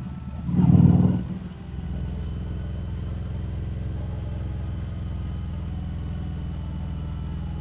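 Harley-Davidson Street Rod 750's liquid-cooled 750 cc V-twin engine running at a steady cruising speed, with a brief louder surge about a second in.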